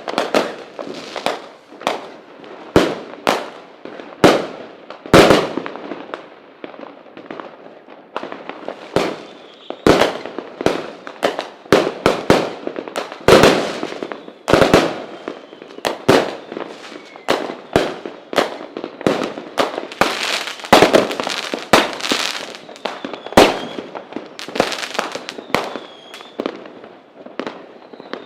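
Fireworks display: a continuous barrage of sharp bangs at irregular spacing, sometimes several a second, with crackling between them.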